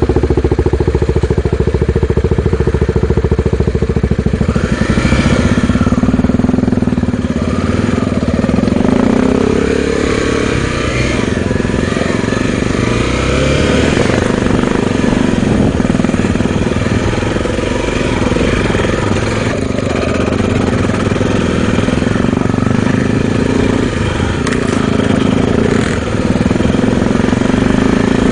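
Honda XR250 Tornado single-cylinder four-stroke motorcycle engine running while riding, its pitch rising and falling with changes of throttle.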